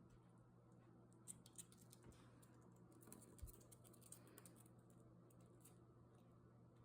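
Faint, light clicking and tapping, a quick irregular scatter of small clicks about one to six seconds in: a Quaker parrot's beak and feet working a small toy basketball.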